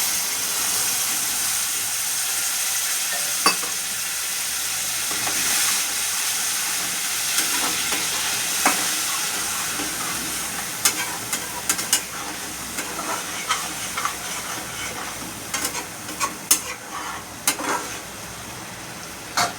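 Water added to hot oil and masala in a pan sizzles loudly, the sizzle slowly dying down. A spoon scrapes and clicks against the pan as it is stirred, with the clicks coming more often in the second half.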